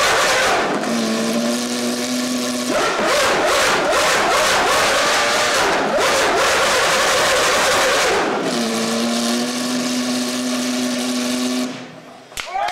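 Racing car engine revving hard, with the pitch swinging up and down. Twice it settles into a steady held note, and it drops away sharply near the end.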